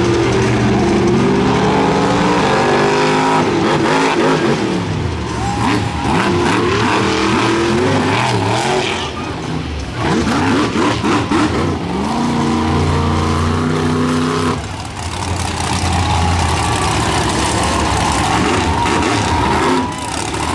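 Monster truck engine revving loudly, its pitch rising and falling again and again, with brief lulls between runs of throttle.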